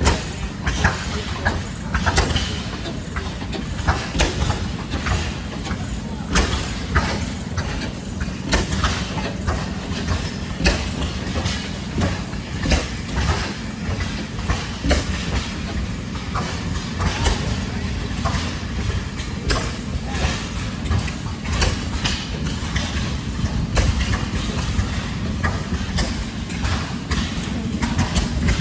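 Antique stationary gas engines running, with one giving a sharp exhaust pop about every two seconds over a steady low engine rumble.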